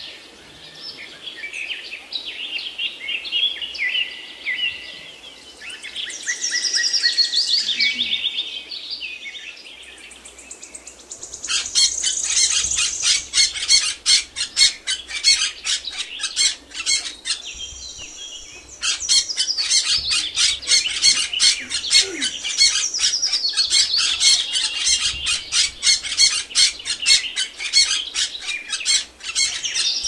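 Small birds chirping and twittering in high notes, then, about a third of the way in, a fast, even run of short high chirps at several a second that goes on with a brief break.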